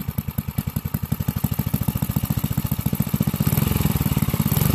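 5 hp Briggs & Stratton single-cylinder engine running, its exhaust firing in an even rapid pulse, getting louder about three and a half seconds in. The owners hear it as not sounding good.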